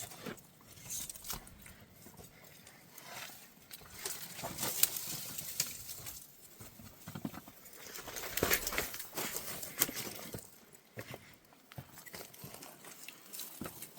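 Irregular footsteps with crunching and rustling over rough ground, broken by scattered sharp clicks, busiest in two stretches mid-way.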